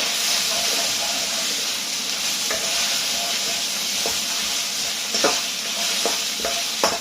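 Chicken pieces sizzling steadily in hot oil in a pan, with a utensil knocking against the pan several times in the second half as the chicken is stirred.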